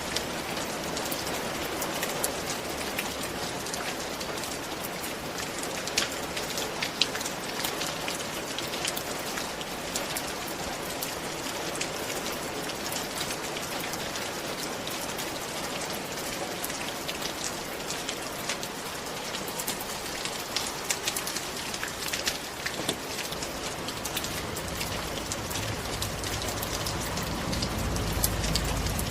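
Steady rain falling, with many sharp drops tapping on a surface. A low rumble builds in the last few seconds.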